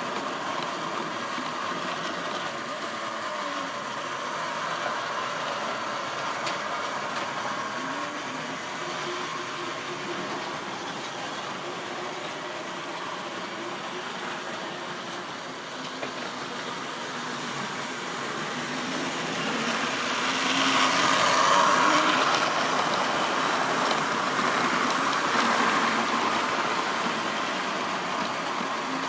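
Model railway train running along the track, with a steady motor hum and the rolling of wheels on rail. It grows louder about twenty seconds in, as if passing close, then eases off.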